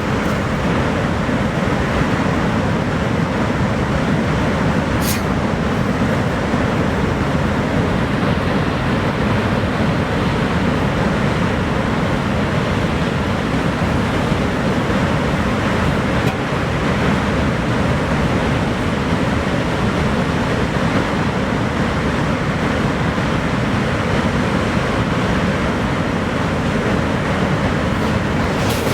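Steady, dense rush of Niagara Falls' water pouring down, an even noise without change.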